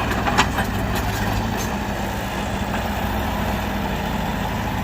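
Heavy machine's diesel engine running steadily at a low, even speed, with a few sharp clicks just under half a second in.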